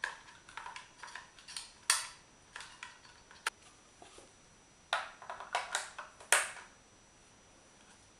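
AA batteries and a plastic battery holder being handled and loaded into an LED video light: a string of irregular sharp clicks and knocks, the loudest about two seconds in and again about six seconds in, stopping near the end.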